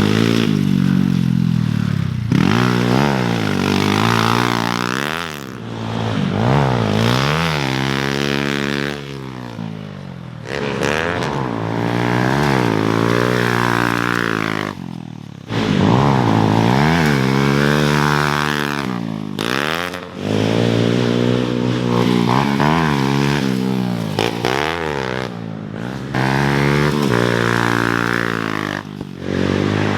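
Motocross dirt bike engines revving on the track, the pitch climbing and dropping over and over as the riders open the throttle, shift and back off, with a few brief lulls between passes.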